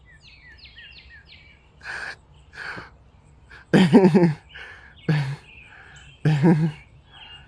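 A small bird chirping a quick run of about five short, high notes in the first second. Later, a man's short breathy sounds and brief murmurs are the loudest things.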